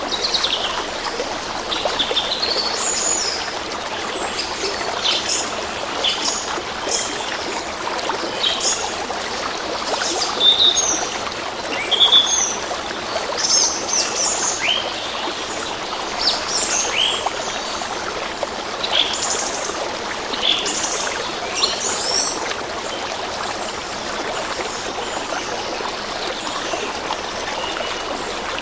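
A stream running steadily, with birds chirping over it in many short, quick calls that thin out near the end.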